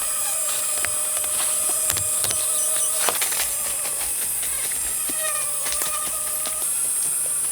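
Steady high-pitched insect drone with scattered sharp clicks and knocks.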